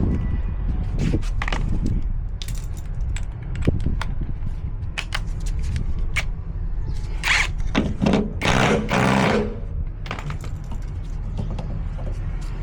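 Scattered clicks, clinks and knocks of metal tools and parts being handled, with a few longer scraping sounds about two-thirds of the way through, over a steady low hum.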